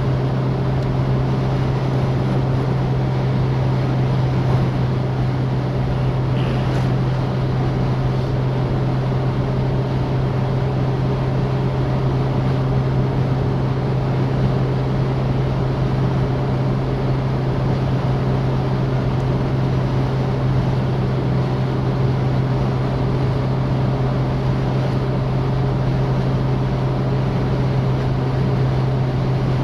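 Citroën DS four-cylinder engine running at a steady cruising speed, a constant low drone over steady road noise.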